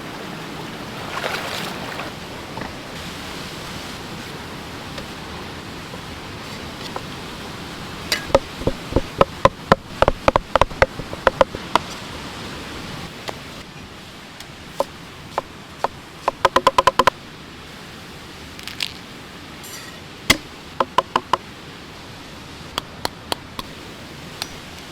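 Sharp knocks of food preparation, such as a knife striking a cutting board, coming in bursts over a steady hiss, with a quick run of about ten strokes a second partway through and scattered single taps near the end.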